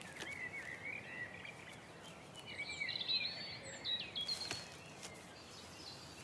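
Small birds singing in a forest, faint warbling phrases joined about halfway through by a busier run of high chirps, over a soft background hiss.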